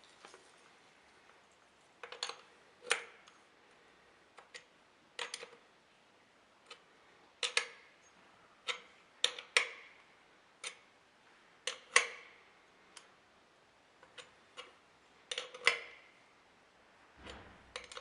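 Irregular sharp clicks and light knocks of hard objects being handled, about twenty spread through, some with a brief ring.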